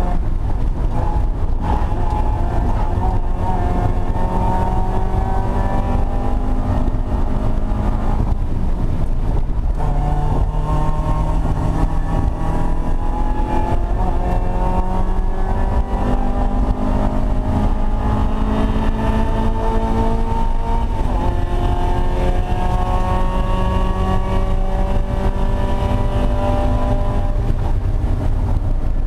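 Race-prepared Mazda Miata's four-cylinder engine at racing speed, heard from inside the car: the revs climb in long pulls that break off and restart about four times at shifts and lifts, over a steady low rumble of road and wind noise.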